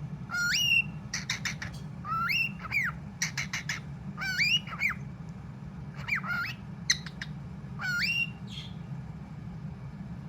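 Young cockatiel chattering: about five short phrases of rising whistles mixed with clicky squawks, mimicking its owner's call of its name.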